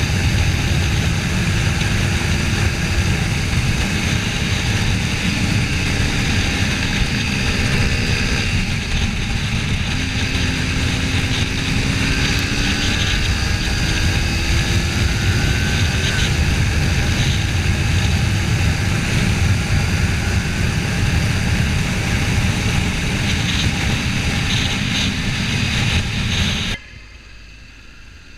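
Wind rushing over the microphone together with the steady drone of a Kawasaki Ninja 400's parallel-twin engine while riding at road speed, its pitch drifting slightly up and down. Near the end the noise drops suddenly to a much quieter level.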